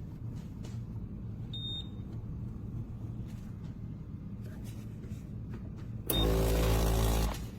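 Espresso machine: a steady low hum with a short high beep near two seconds in, then about six seconds in its pump starts buzzing loudly and runs for just over a second before stopping.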